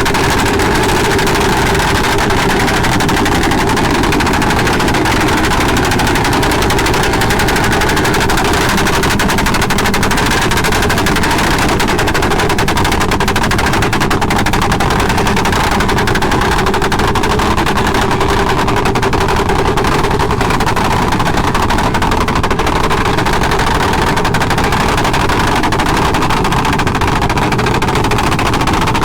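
Motorcycle engine running at steady revs close to the microphone, its exhaust a continuous rapid rattle of firing pulses.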